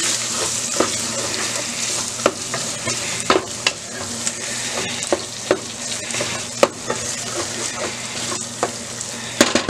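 Ground beef with peppers and tomato paste sizzling in a pot while being stirred, the wooden spoon scraping and knocking against the pot now and then. A quick run of knocks comes near the end.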